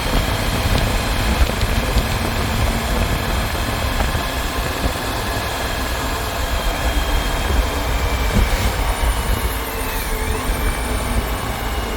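Motorcycle on the move: steady engine and road noise under heavy wind rumble on the microphone.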